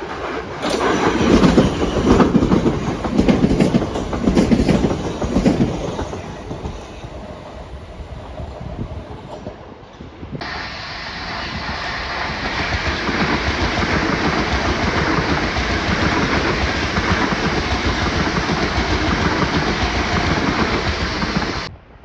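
A train passing, its wheels clacking over rail joints in loud beats about once a second, then fading. About ten seconds in the sound changes abruptly to a steady rushing noise of a train running past, which cuts off suddenly near the end.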